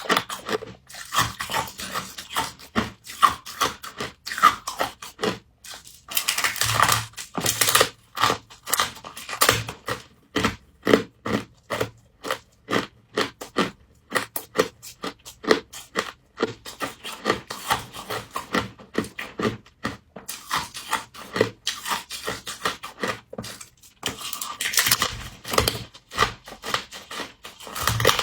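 Close-up crunching and chewing of humidifier-grown frost: a fast run of crisp bites, with thicker, longer crunches about seven seconds in and again near the end.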